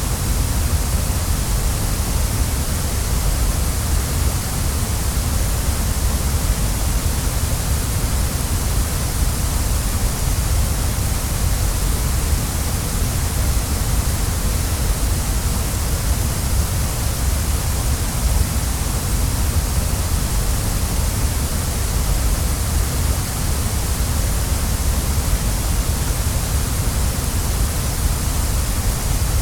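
Waterfall: the steady, even rush of falling water, with no change and no separate splashes.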